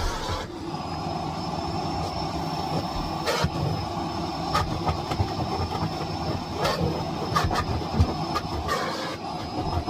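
Miele Blizzard CX1 bagless cylinder vacuum cleaner running steadily with a thin high whine, with scattered knocks and clicks as it is worked.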